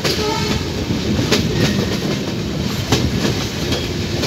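Passenger train running along the track, a steady rumble of wheels on rail with an occasional sharp clack as the wheels cross rail joints, heard from the side of a moving coach.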